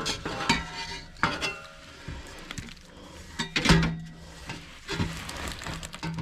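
Metal parts and tools clinking and knocking, several separate strikes, some with a short ringing tone, as exhaust hardware is handled during the install.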